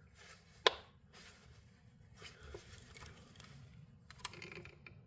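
Handling noises from fiddling with a broken battery-powered grinder: one sharp click about half a second in, then scattered faint taps and clicks, with no motor running.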